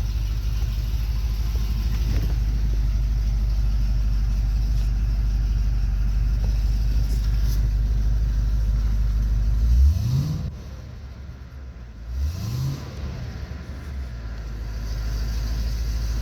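2010 Cadillac CTS-V's supercharged 6.2-litre V8, with long-tube headers, an X-pipe and stock mufflers, idling steadily on E85 shortly after a cold start. It gets two short throttle blips, about ten and twelve seconds in, each a quick rise and fall in pitch, then settles back to a steady idle.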